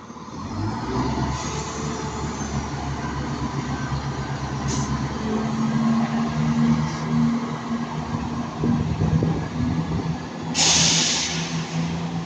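Class 170 Turbostar diesel multiple unit pulling out of the station, its diesel engines opening up about half a second in and then running under power with a steady low drone. About ten seconds in there is a loud burst of hiss lasting about a second.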